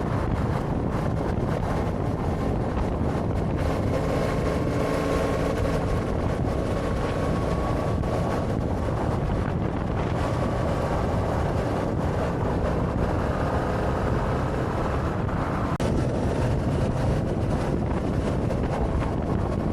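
Motorcycle engine running steadily at cruising speed, heavy wind rushing over the microphone and partly covering it.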